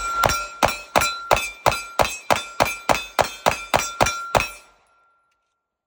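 A ported pistol firing 115-grain rounds in rapid fire, about a dozen shots at roughly three a second, with a faint steady ringing under them that fades after the last shot. The shooting then cuts off into silence.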